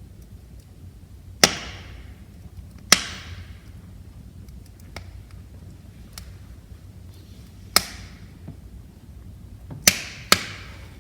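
Burning logs in a wood fire crackling, with five loud sharp pops (two close together near the end) and scattered small ticks over a low steady rumble of the flames.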